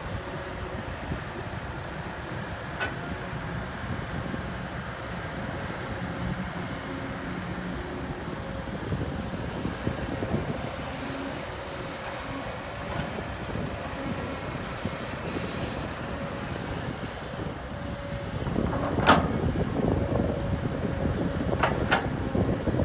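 Heavy diesel earthmoving machinery running steadily, with two sharp metallic clanks near the end.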